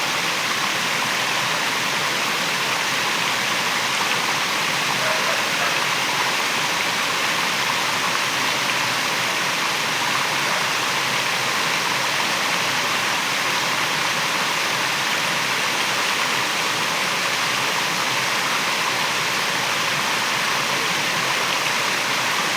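Waterfall: water pouring and rushing in a steady, unbroken roar.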